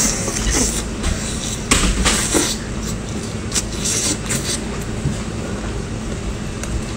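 Eating sounds of a person chewing cooked chicken: a few short wet smacks and clicks from the mouth, over a steady low background hum.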